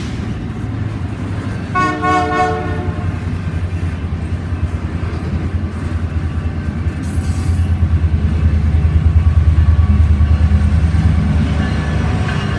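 Diesel locomotive horn sounding one short chord blast about two seconds in, then the train rumbling by at close range, with a low rhythmic pulsing that grows louder.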